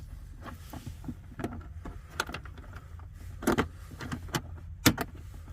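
A portable butane stove's case being handled and worked open: a string of irregular clicks and knocks, with two louder knocks about three and a half and five seconds in, over a steady low hum.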